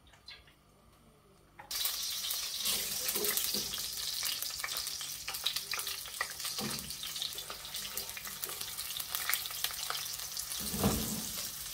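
Sliced onions frying in hot oil in a wok: a sudden loud sizzle starts about two seconds in and carries on as a steady hiss full of crackles and spatters. A louder bump comes near the end.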